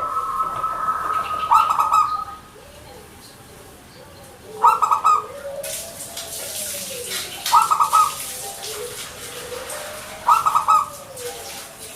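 Zebra dove (perkutut) cooing: four short, rapidly pulsed coo phrases, about three seconds apart.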